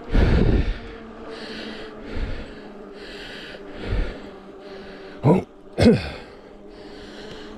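A cyclist breathing hard while pedalling, with a breath about every second and a half. Two short loud snorting sounds come about five and six seconds in, with low wind rumble on the microphone near the start.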